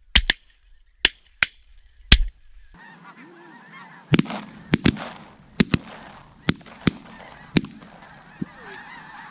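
A volley of shotgun shots, more than a dozen, fired in quick succession by several hunters. Snow geese honk steadily underneath.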